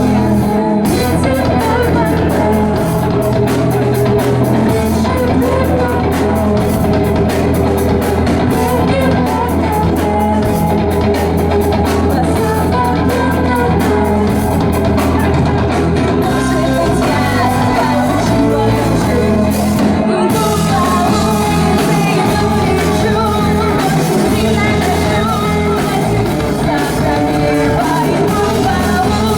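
A live rock band playing a song with sung vocals, over guitar, bass and drums, in a large room.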